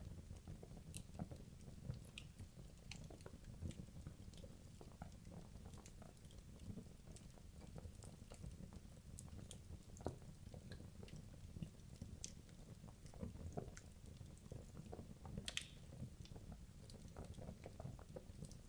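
Wood logs burning in a fireplace: irregular crackles and small pops over a low steady rumble, with one sharper pop about three-quarters of the way through.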